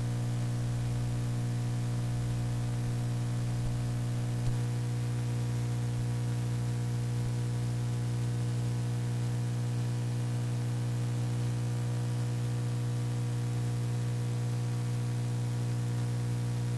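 Steady electrical hum with a stack of even overtones over faint hiss, unchanging throughout: the recording's own mains hum and noise, with no other sound.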